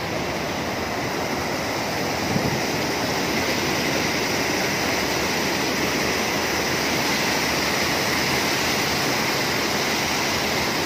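A city stream flowing, a steady rush of water, with one brief knock about two and a half seconds in.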